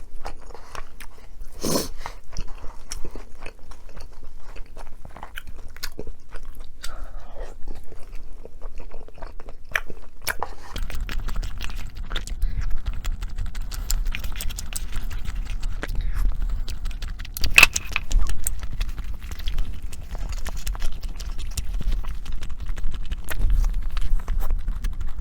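A person chewing and biting food close to the microphone, with many small crisp clicks and smacks. From about eleven seconds in, a low rumble sits under the chewing.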